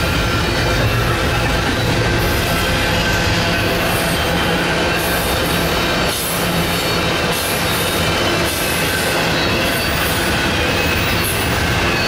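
Double-stack container freight train's well cars rolling past at close range: a steady, loud rumble of steel wheels on rail, with high-pitched wheel squeal running through it.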